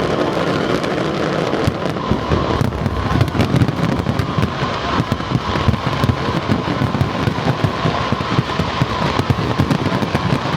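Aerial fireworks in a dense barrage: many shell bursts and crackling reports in rapid succession, with a continuous low rumble of explosions beneath.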